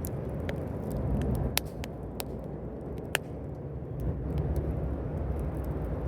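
Wood fire burning: a low steady rumble under scattered sharp pops and crackles of burning wood, two louder pops about a second and a half apart near the middle.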